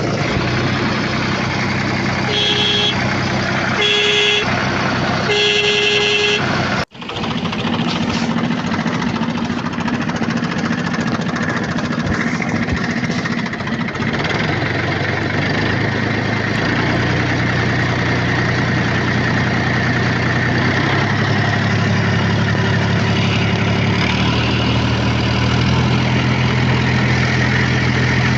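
Vehicle engine sound running steadily, its pitch stepping up and down every few seconds, with three horn toots in the first seven seconds, the last one longer. The sound cuts out for an instant just before the seventh second, then the engine sound carries on.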